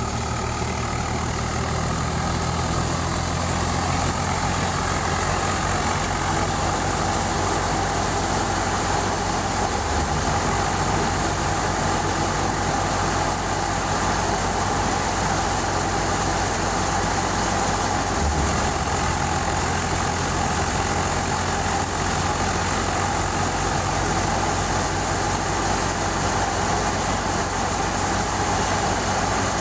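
Swaraj 744 FE tractor's three-cylinder diesel engine running steadily at about 1800 RPM while driving a thresher. It holds its speed evenly and shows no strain under the load.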